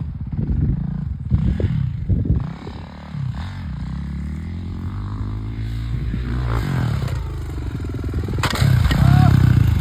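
Dirt bike engine running and revving, its pitch rising and falling, and growing loudest near the end.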